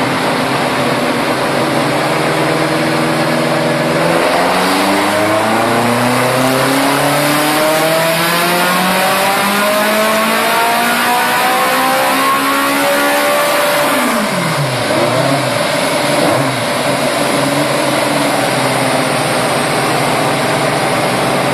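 Fiat 128 1.3-litre SOHC four-cylinder engine of a space-frame Simca 1000 Rallye 3 race car doing a dyno pull. After a few seconds at steady low revs, it climbs smoothly and steadily up through its rev range for about ten seconds, then the revs drop quickly and settle to a steady lower speed.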